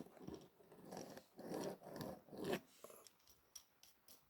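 Close-up handwork on a small die-cast toy part: a few soft rasping strokes, about two a second, then a few light clicks.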